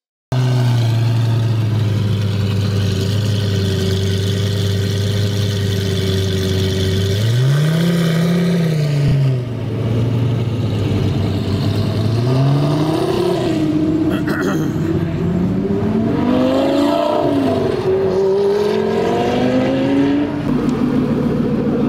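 Lamborghini Gallardo V10 idling steadily, then blipped once, the pitch rising and falling back, about seven seconds in. In the second half it is revved several more times, the pitch climbing and dropping.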